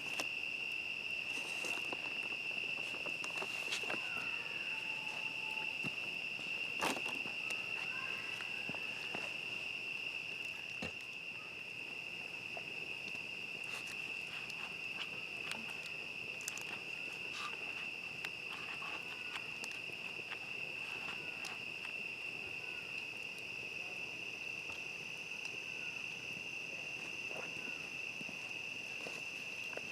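Crickets trilling in a steady chorus on one high, even pitch, with scattered sharp pops and crackles from a campfire.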